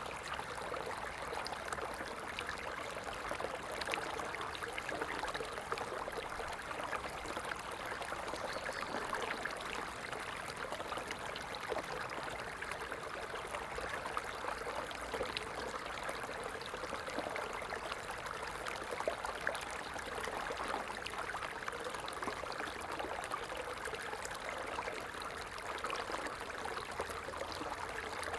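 Small stream flowing and babbling over stones, a steady rush of water with fine trickling splashes.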